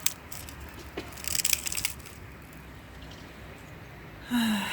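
Faint clicks and a brief crackling rustle, then a short low hum from a woman's voice, falling in pitch, near the end.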